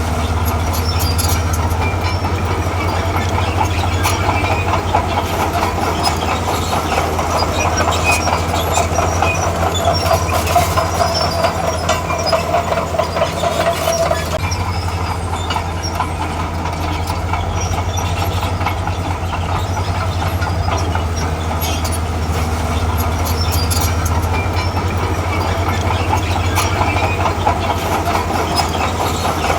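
Crawler bulldozer (Komatsu D41P) working: its diesel engine runs steadily under load while the steel tracks clank and rattle. A metallic squeal rises over it from about eight seconds in and stops about six seconds later.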